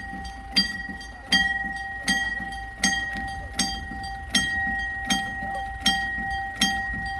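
Railway level-crossing warning bell ringing at a steady pace, a clear metallic ding about every three quarters of a second, signalling that a train is approaching.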